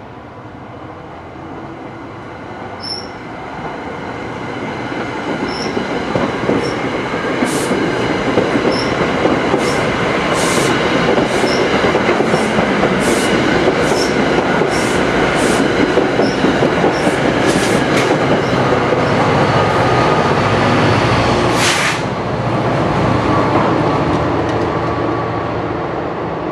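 New Jersey Transit commuter train passing close by, its noise building over the first several seconds and staying loud, with a run of sharp clacks of wheels over rail joints and faint high wheel squeaks through the middle.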